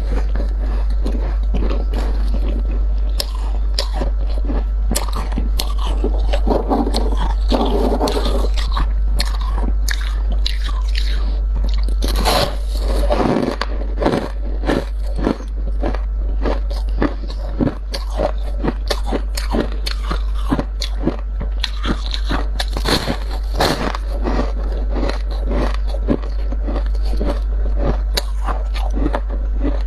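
Dry, squeaky deep-freezer frost crunching as it is scraped out by hand and bitten, a dense run of crisp crunches with a louder, thicker stretch about halfway through.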